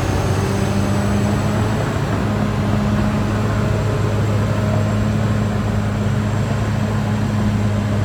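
Caterpillar D6R XL bulldozer's diesel engine running steadily under load, holding an even pitch.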